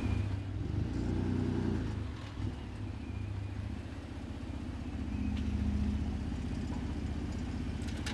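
Ford pickup truck's engine running as the truck drives slowly, a steady low hum that swells about a second in and again around the middle.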